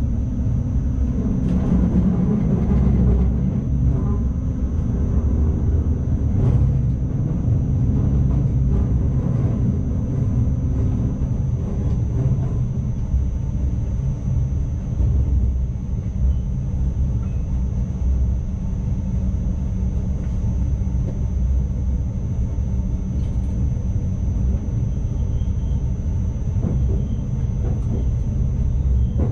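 Steady low rumble of an NS ICMm electric intercity train running along the track, heard from the driver's cab, with a thin constant high whine above it and a few faint clicks.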